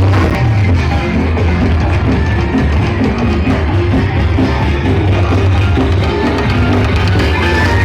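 Loud music with heavy bass played over a miniature sound-system rig.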